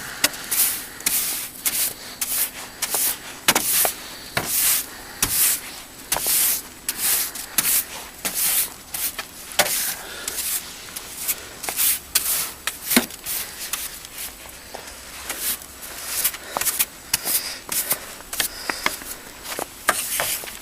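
Snow brush sweeping packed snow off a car, repeated quick scraping strokes at about one or two a second.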